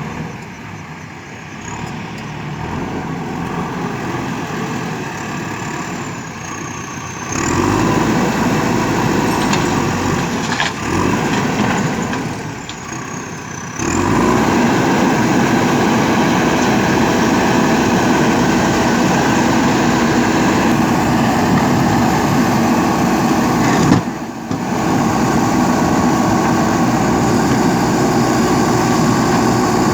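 JCB 3DX backhoe loader's diesel engine running steadily as it works. The sound steps up abruptly in loudness about 7 and 14 seconds in, with a brief drop near 24 seconds.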